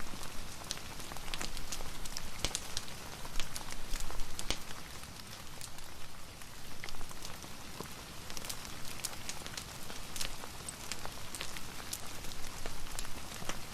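Steady rain, with many small sharp pops and crackles scattered through it, as from a wood fire burning.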